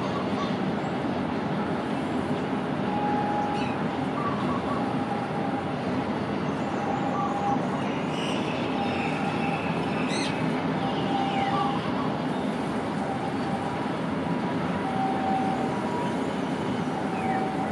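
Freight train of railway tank wagons rolling past at a steady pace: a continuous rumble of wheels on the rails, with brief squeals every second or two.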